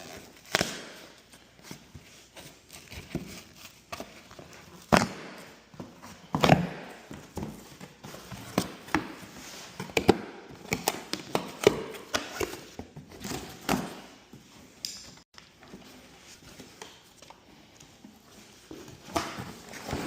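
Irregular knocks, clicks and clanks of garage door opener hardware and tools being handled, a dozen or so sharp hits spread unevenly with quieter rustling between them.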